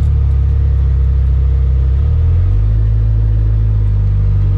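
Jeep Wrangler Unlimited's engine and drivetrain droning steadily while driving, the pitch of the drone changing about two and a half seconds in.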